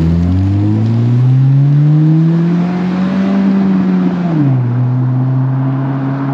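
Turbocharged 1.5-litre four-cylinder of an 11th-gen Civic Si / Integra through an aftermarket exhaust. It rises in pitch for about two seconds and holds, then drops sharply about four seconds in and settles at a steady lower note.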